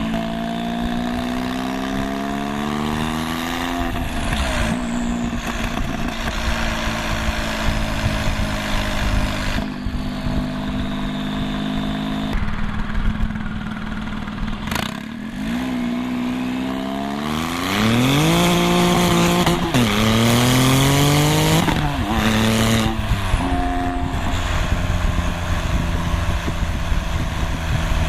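Straight-piped 2001 Porsche 996 911 Turbo's twin-turbo flat-six, on turboback straight pipes, running loud. It is revved up and let fall back, steadier through the middle, then pulled up hard several times in quick succession in the second half.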